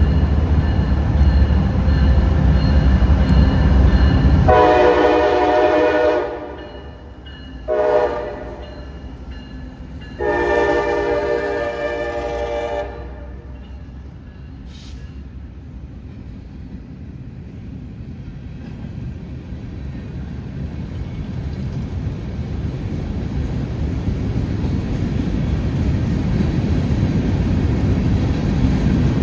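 Diesel freight locomotives running close, then the locomotive's air horn sounds a long blast, a short one and another long one, the close of a grade-crossing horn signal. Afterwards the train's low rumble builds steadily as it rolls on.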